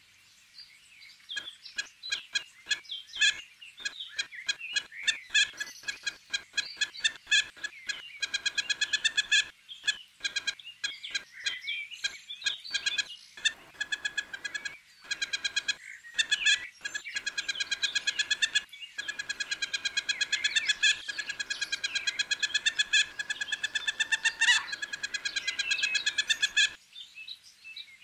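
Birds calling: scattered high chirps, then long runs of rapid, evenly repeated squeaky notes, with one quick rising whistle near the end.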